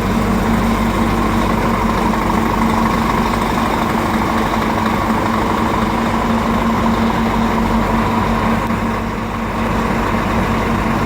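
Scania truck engine running steadily at idle, a constant even hum with a slight dip in level about nine seconds in.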